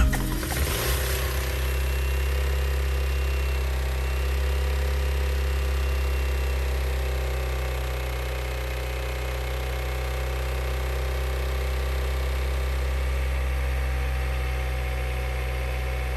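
Freshly rebuilt engine of a third-generation Honda Prelude settling into a steady idle, its first run after cranking to build oil pressure.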